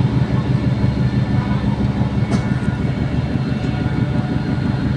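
Express ferry's engines running with a low, steady drone while the ship comes alongside to berth, with one short knock about two seconds in.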